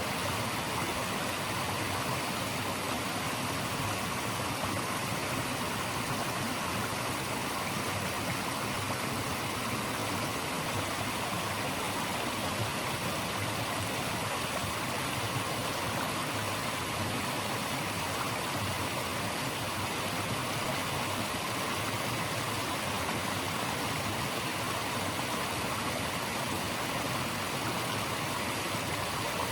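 Flowing stream water rushing steadily, an even, unchanging hiss.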